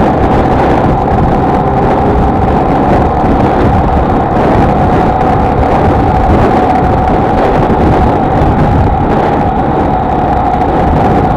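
Honda XLR125R's single-cylinder four-stroke engine running steadily at cruising speed, with heavy wind and road rush over the microphone.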